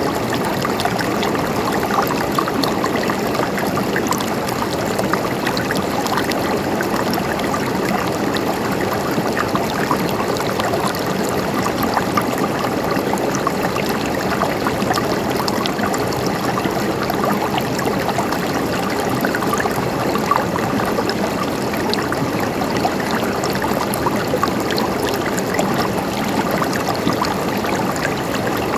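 Mountain stream gurgling and splashing steadily over rocks, an even flow of water with no breaks.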